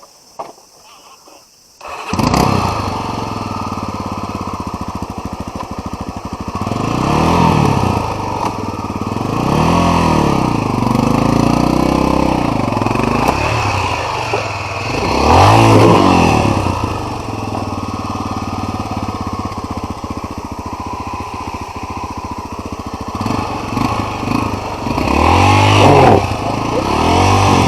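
An off-road trail motorcycle's engine is restarted on the electric starter after stalling, catching about two seconds in. It then keeps running, revved up and down several times as the bike is ridden.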